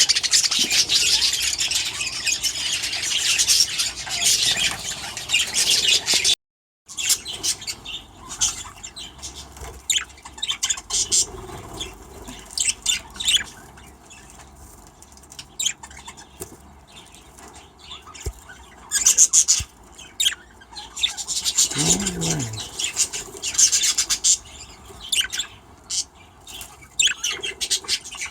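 A flock of budgerigars chattering and chirping in an aviary. The chatter is dense at first. After a brief break it turns sparser, with busier spells of chirping later on.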